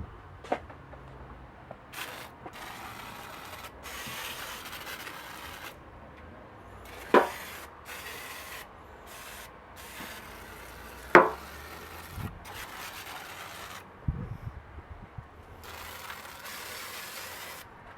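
Engine degreaser being sprayed over an engine bay in repeated hissing bursts, each half a second to two seconds long, with short gaps between them. Two sharp clicks stand out, about 7 and 11 seconds in.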